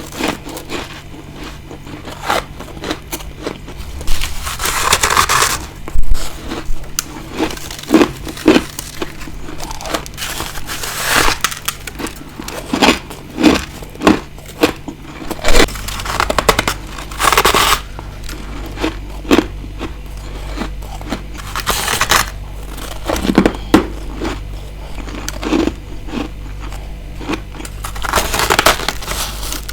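Ice being bitten and chewed close to the microphone: irregular sharp crunches about once a second, with a few longer crumbling crunches.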